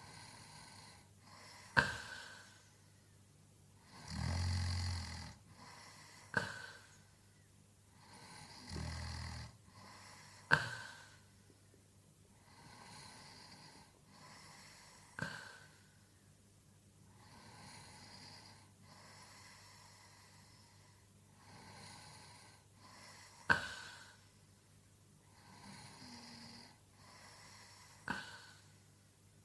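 A man asleep and snoring: two deep, loud snores in the first ten seconds, then softer, quieter breaths every few seconds. Six sharp clicks come at intervals of a few seconds.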